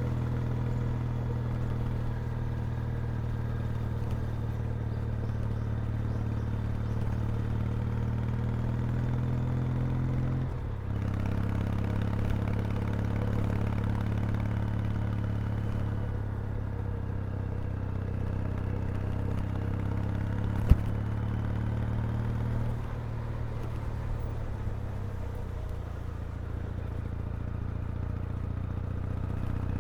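Kawasaki W800's air-cooled vertical-twin engine and exhaust running steadily on the move. The engine note dips briefly and changes pitch about ten seconds in, a single sharp click comes about twenty seconds in, and the note settles lower shortly after.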